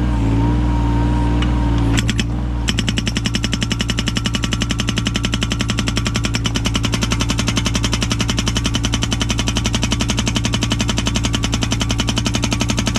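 Hydraulic breaker with an axe-type chisel on a Yanmar 017 mini excavator, starting up about two seconds in and hammering with rapid, even blows to split firewood, over the excavator's steady diesel engine.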